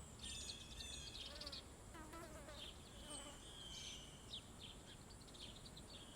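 Birds chirping and trilling, many short calls overlapping, over a steady high-pitched insect buzz.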